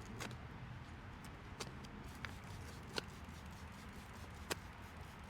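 A handful of light, isolated clicks and taps from small parts or tools being handled, spaced a second or so apart, over a low steady hum.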